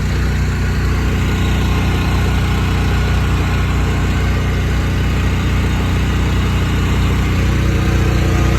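Heavy truck engine running steadily at idle, getting a little louder near the end.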